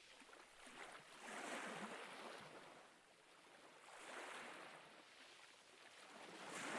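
Faint ocean waves washing on a shore, surging and receding in slow swells, with a new swell building near the end.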